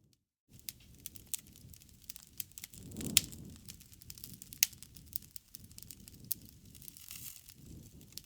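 Wood fire burning, crackling with a dense run of sharp pops over a low rush of flames; two pops about three and four and a half seconds in stand out as the loudest. The sound drops out for half a second at the start.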